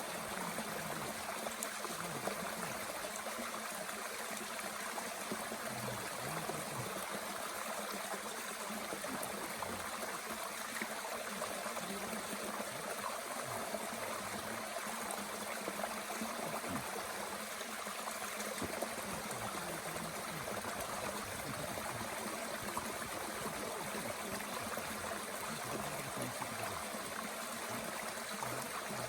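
Mountain stream running steadily, with a few faint crackles from a small wood fire burning in a Bushbox stove.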